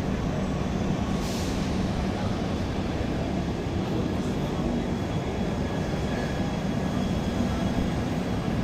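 Express passenger train running through a station at speed: a steady rolling rumble of wheels on rail, with a brief high hiss about a second in.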